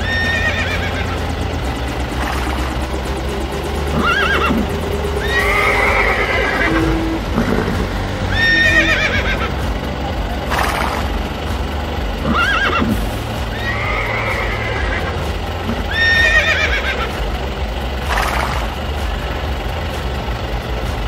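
Horse neighing sound effect, repeated as a string of short whinnies about every two seconds over a steady background music track.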